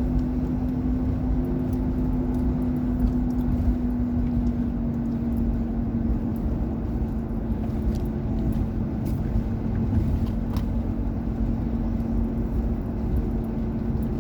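Car engine and road noise heard from inside the moving car's cabin: a steady low rumble with an even engine hum.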